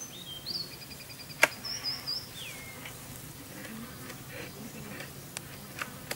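Birds calling outdoors, with short whistled and trilled notes in the first few seconds. A single sharp click sounds about a second and a half in, and a few fainter clicks come near the end.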